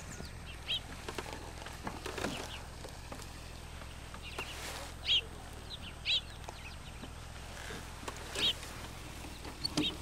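Outdoor birds calling: single short chirps, about five or six of them, a second or several seconds apart, over a steady low outdoor background. A few soft knocks come about one to two seconds in.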